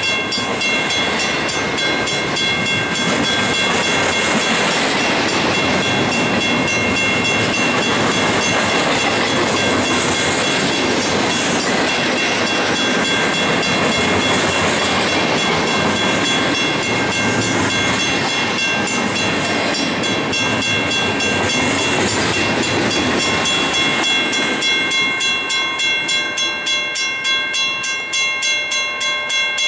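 Union Pacific double-stack intermodal train rolling past, with a steady rumble and clatter of well-car wheels on the rail. About 24 seconds in, the train noise gives way to a grade-crossing bell ringing about twice a second.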